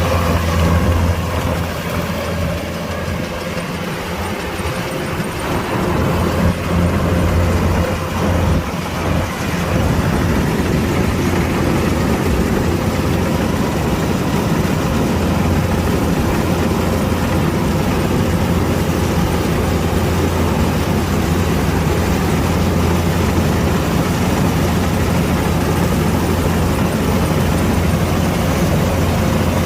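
Kubota DC-105X combine harvester's diesel engine running with a steady, deep hum. It eases off slightly for a few seconds near the start, then holds an even pitch.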